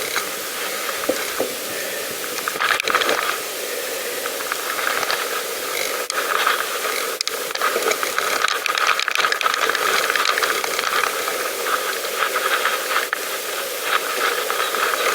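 Bicycle ridden over a rough towpath: a steady hiss of tyre noise with irregular rattling and clicking from the bike over the bumps.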